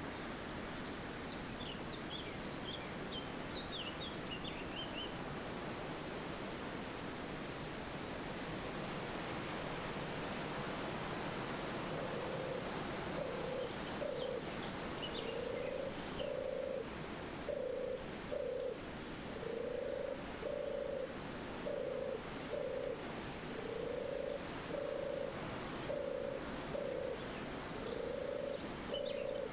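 Forest wind as a steady rushing hiss, with a few quick, high bird chirps in the first few seconds and again at the end. From about halfway, a low animal call repeats in short pairs, roughly one pair a second, and is the loudest sound.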